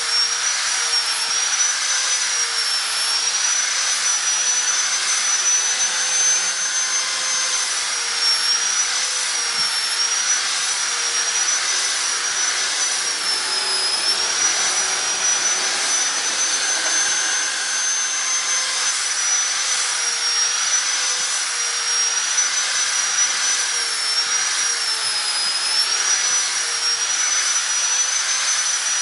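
High-speed handheld grinder fitted with a 150-grit sanding disc, running continuously as it sands a square bird-cage bar round. Its high motor whine dips and recovers in pitch as the disc is pressed to the work, over a steady grinding noise.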